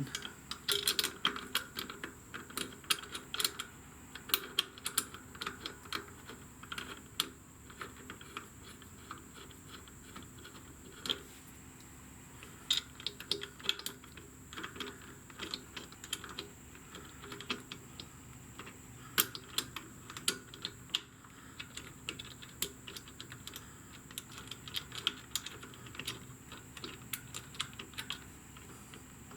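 Light, irregular metallic clicks and taps of small parts and hand tools being handled as bolts are fitted back into the motorcycle's brake pedal and footrest assembly.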